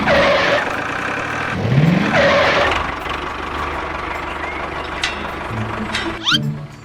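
An engine revving up twice, once at the start and again about two seconds in, then running on steadily.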